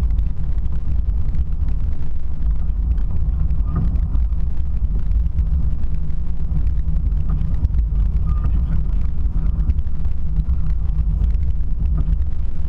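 Steady low rumble of a car driving, with no change in pace.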